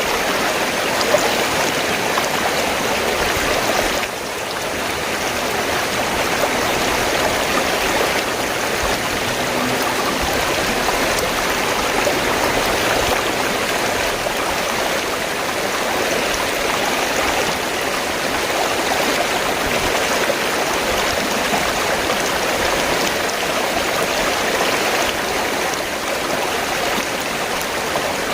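River water flowing steadily, an even rush of moving water with a brief slight dip about four seconds in.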